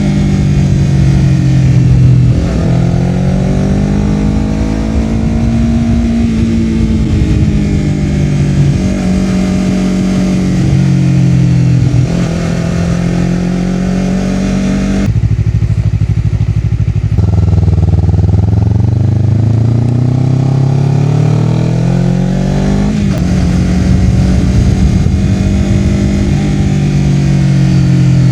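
Honda CBR250RR's parallel-twin engine through a Yoshimura R-11 slip-on exhaust under way, the revs climbing and dropping with several gear changes. About halfway through, the exhaust note falls away for a couple of seconds as the throttle closes, then the revs climb steadily again.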